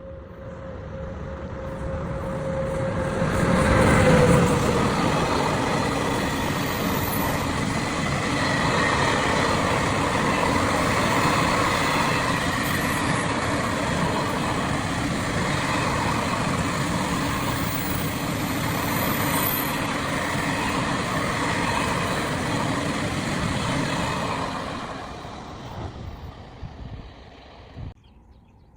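A freight train passing by: the noise swells to its loudest about four seconds in, as a steady tone slides slightly down in pitch. A steady rumble and rattle of wagons then runs on and fades away near the end.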